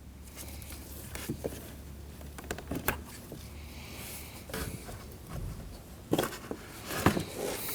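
Scattered light plastic clicks and knocks, with a brief scraping rustle about halfway through, as the door panel's electrical connectors are unclipped and the plastic door trim panel is handled.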